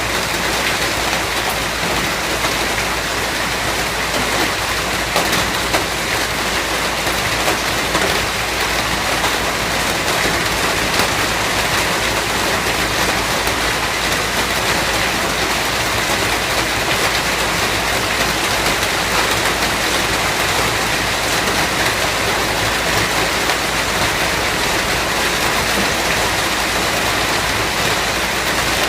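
Steady, even rainfall: a dense hiss of rain on surfaces with scattered individual drops.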